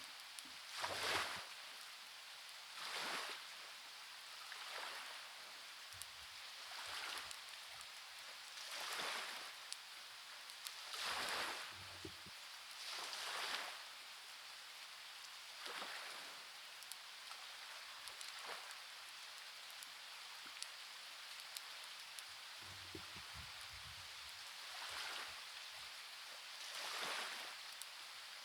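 Steady rain hiss with waves washing in about every two seconds, quieter for a few seconds after the middle, and scattered faint clicks.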